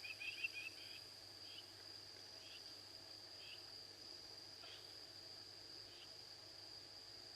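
Crickets trilling faintly in one steady high note at night, with a second caller chirping: a quick run of pulses at the start, then single short chirps about once a second.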